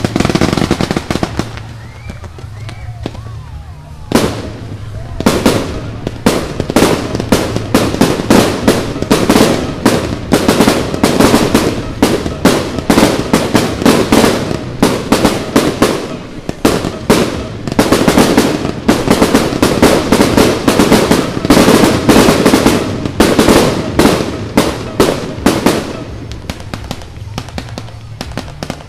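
Aerial fireworks exploding in a rapid barrage. After a quieter couple of seconds, sharp bangs begin about four seconds in and follow several a second, cracking one over another until near the end.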